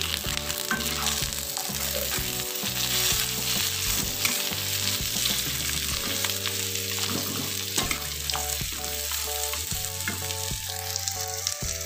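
Sliced shallots, onion and whole spices sizzling in oil in a wok, stirred with a metal spoon that clicks and scrapes against the pan, over soft background music.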